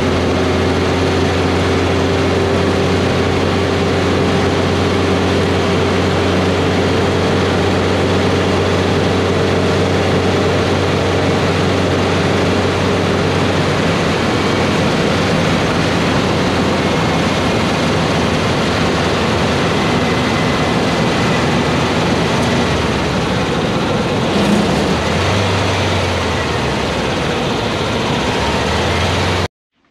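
Air-cooled Volkswagen Beetle flat-four engine running steadily as the car drives along, under broad road and wind noise; it cuts off suddenly just before the end. The owner suspects the engine is running lean on its 135 main jet.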